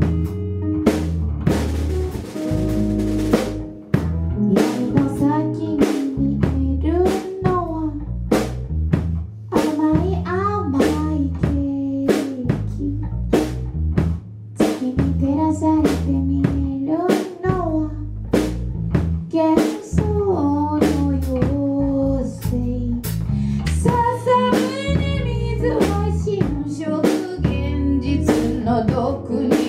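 Live band music: a drum kit keeps a steady beat of snare and bass-drum hits under a bass line and a sliding melodic line, with a cymbal crash washing over the beat about two seconds in.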